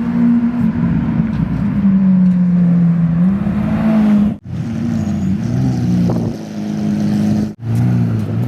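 A car engine running loudly as the car arrives, its pitch dipping and then rising again, then settling lower. The sound cuts out abruptly twice, about four and a half seconds in and again near the end.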